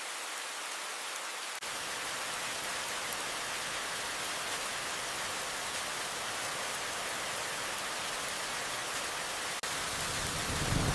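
Steady rain falling, an even hiss. In the last second a low rumble of thunder begins to build.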